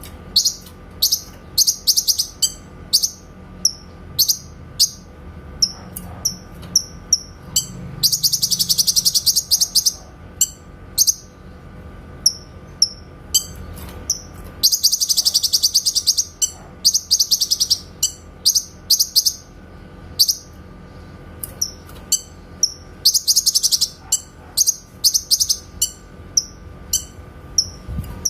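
Cucak kinoy bulbul singing: short, sharp, high notes repeated about twice a second. Three times these break into a rapid chattering trill lasting one to two seconds, the clear 'tembakan' (shooting) phrases.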